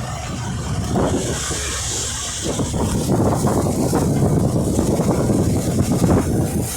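Truck engine running with a steady low rumble, a hiss about a second in, and rattling clatter through the middle.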